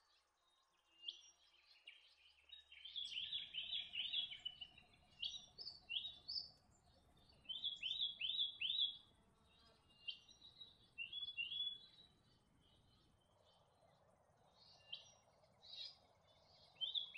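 Small birds calling: short high chirps and quick runs of sweeping notes, in clusters with pauses between, over a faint low rumble.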